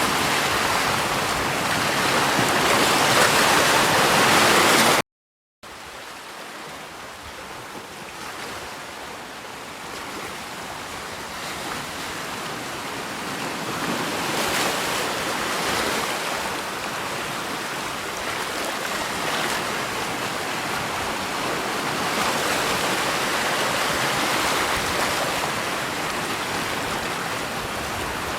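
Steady rain for about five seconds, then a brief dropout to silence, and a new steady rush of flowing water that starts quieter and slowly grows louder.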